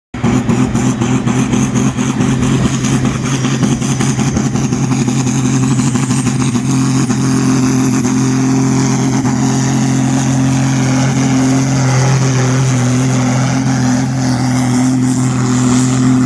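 Tractor-pulling engine running loud and steady, holding an even pitch.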